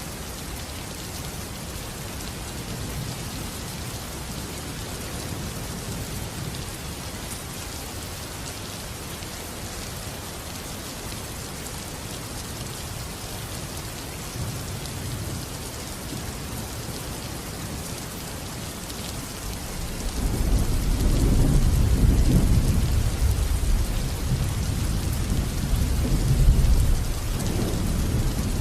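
Steady rain falling, with thunder rumbling in the low end; about twenty seconds in a deep, louder roll of thunder builds and rumbles on to the end.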